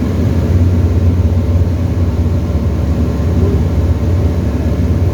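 Tecnam ultralight's piston engine and propeller droning steadily, heard from inside the cockpit.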